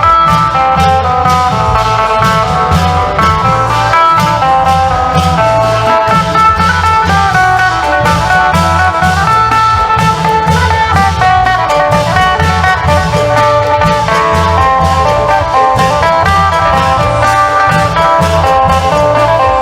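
Isan phin lute playing a fast, busy melody over the pulsing beat of klong yao long drums and percussion.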